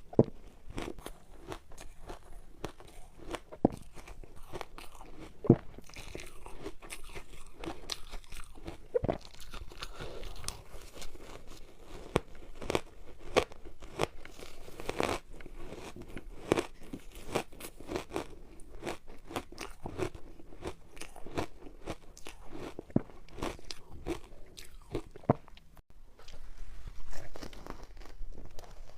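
Close-up crunching and biting of frozen ice, a matcha ice ball, with many irregular sharp cracks as the ice is bitten and chewed.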